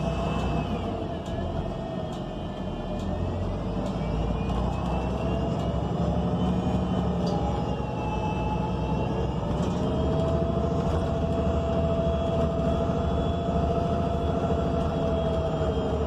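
Interior of a 2019 ENC Axess BRT city bus under way: the Cummins Westport L9N natural-gas engine runs as a steady low rumble, with a drivetrain whine that slowly rises and falls in pitch as the speed changes. Light clicks and rattles from the cabin are scattered throughout.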